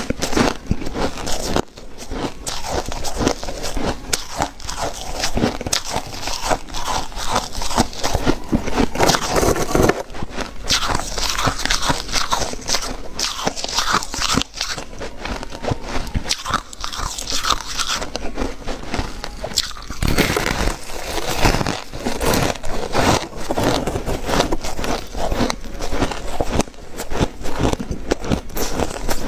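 Ice being bitten and chewed up close: a dense, continuous run of crunches and crackles.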